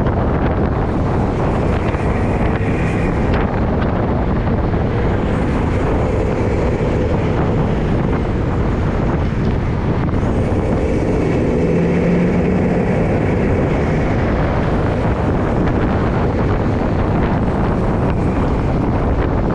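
Wind buffeting the microphone of a camera carried on a moving bike, a loud steady rush of noise. A faint humming tone swells and fades near the middle.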